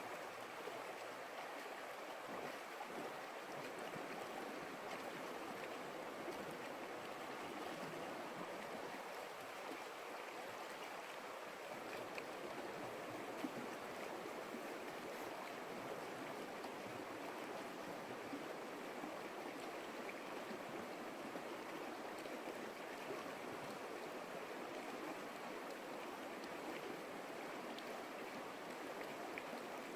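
A stream's water flowing in a steady, even rush.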